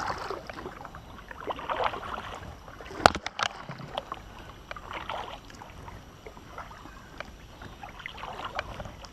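Water sloshing against a kayak in soft swells every two to three seconds, with a sharp knock about three seconds in.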